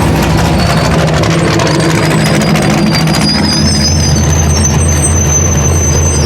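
Truck engine running loud and steady at an even pitch, without revving.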